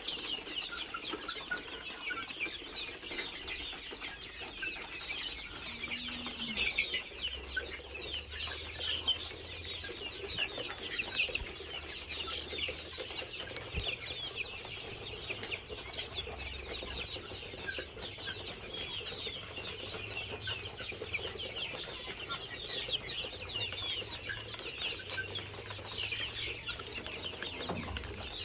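A flock of poultry-farm chickens calling: many short, high-pitched calls overlapping into a continuous chorus.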